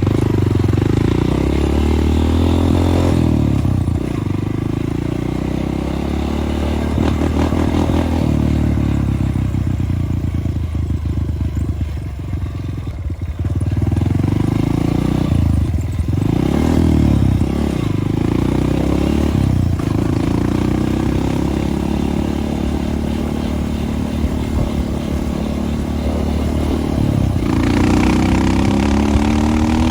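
Dirt bike engine running while being ridden, its pitch rising and falling with the throttle. Near the end it revs up in a run of rising glides.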